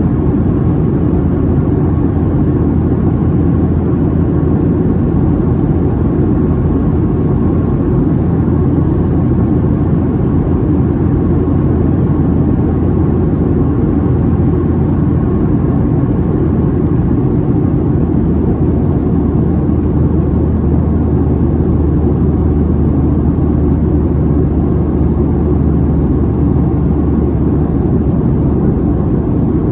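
Steady cabin noise inside a Boeing 737-700 in flight: a low drone from its CFM56-7B turbofan engines mixed with the rush of air past the fuselage.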